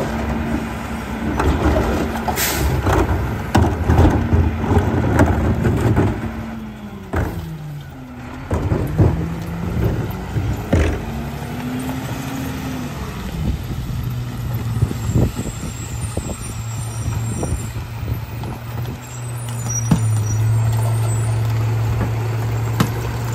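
Garbage truck's diesel engine running at raised revs with clanks and knocks of metal and plastic, then the revs drop, rise briefly and settle to a steady idle about halfway through. A short hiss of air comes about two and a half seconds in.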